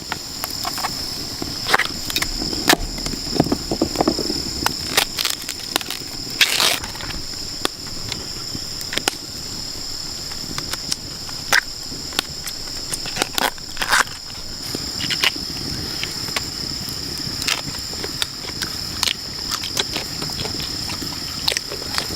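Steady high-pitched rainforest insect chorus, two unbroken tones, with irregular sharp clicks and knocks over it throughout.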